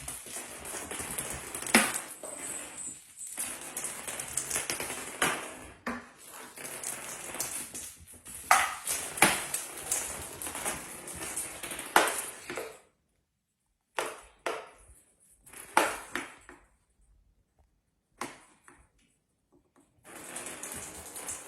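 Sharp knocks and clatter over a steady hiss, broken by short silent gaps.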